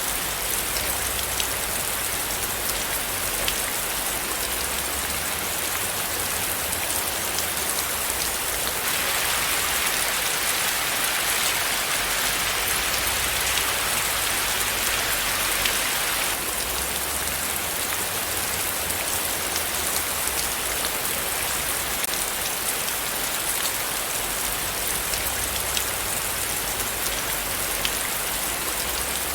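Steady rain falling, with scattered drops ticking on a surface. It grows a little heavier for several seconds in the middle.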